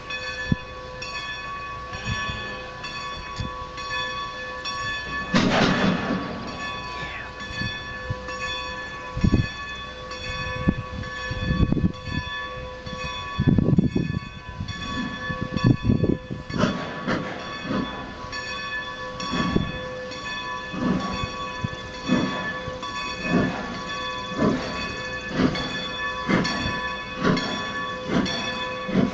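Strasburg Rail Road's No. 90, a 2-10-0 decapod steam locomotive, working a train. Its exhaust beats come about once a second in the second half, and there is a loud rushing burst about five seconds in.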